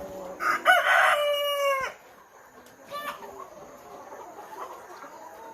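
A chicken crows once, a long call held for about a second and a half that drops in pitch as it ends. Softer clucks from the flock follow.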